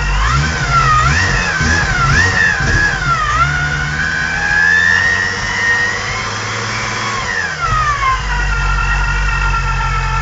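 Supercharged VR6 engine being revved: a few quick rises and falls, then one slow, longer climb that drops back to a steady idle about eight seconds in. A high supercharger whine rises and falls with the revs.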